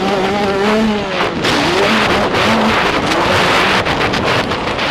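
85cc two-stroke motocross bike engine revving up and down under the rider. From about a second and a half in, a loud rushing noise largely covers it.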